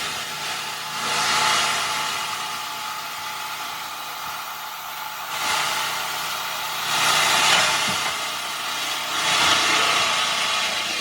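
Heavy machinery engine running under a steady hum, swelling louder and easing off about four times as it is revved.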